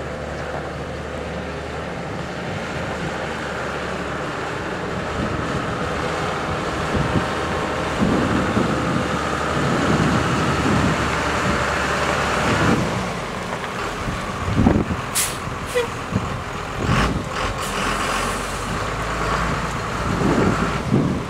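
Cummins diesel engine of a 1999 Ford F-series water truck running steadily, growing louder for a few seconds in the middle before settling. In the last third come several short, sharp hissing or clicking noises over the engine.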